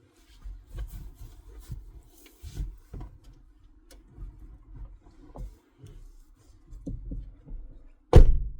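Fabric rustling, rubbing and light knocks from a car seat cover being pulled and tucked around a seat, with one loud thump near the end.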